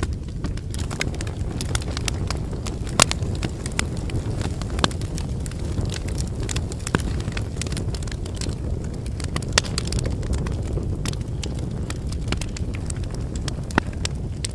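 Wood fire burning: a steady low rumble of flames with irregular sharp crackles and pops from the burning firewood, a few louder snaps standing out, one about three seconds in and another near the end.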